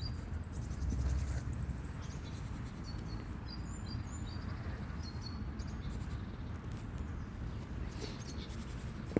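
Small birds chirping, short high notes repeated again and again, over a steady low rumble.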